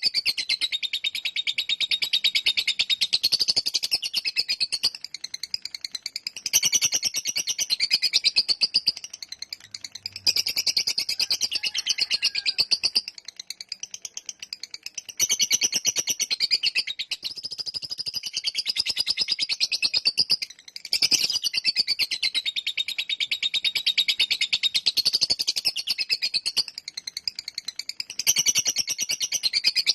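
Lovebird singing its long 'ngekek' chatter: a high, rapid rattle of fast repeated notes in long phrases of several seconds, broken by short pauses.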